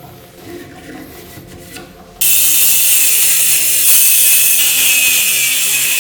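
Faint mechanical clicking, then about two seconds in a loud, steady rasping noise from a tool working on the part starts suddenly.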